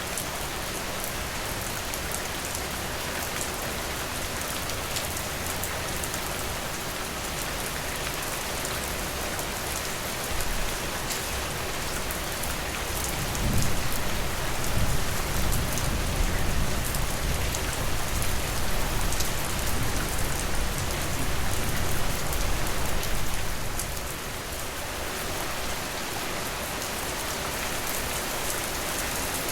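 Steady rain, an even patter and hiss. About halfway through, a low rumble swells up under the rain for roughly ten seconds, then fades.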